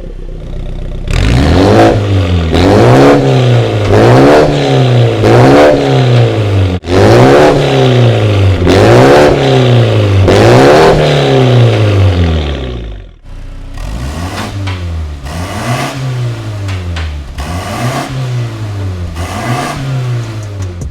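Mini Cooper JCW GP's 2.0-litre turbocharged inline-four being blipped repeatedly through a Veleno straight-through valvetronic catback exhaust. The revs climb and drop about once a second, and the sound is quieter from about thirteen seconds in.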